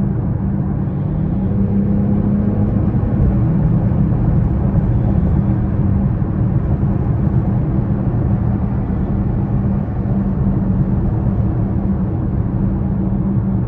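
2020 BMW X6 40i under way: a steady low hum from its turbocharged inline-six engine mixed with tyre and road noise.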